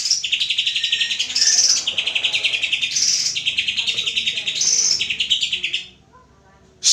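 Cucak hijau (green leafbird) singing: long runs of rapid, rattling trills with higher whistled phrases between them. The song breaks off about six seconds in and starts again just at the end.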